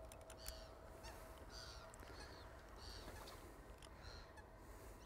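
Near silence: faint lakeside quiet with soft, repeated distant bird calls and a few light clicks.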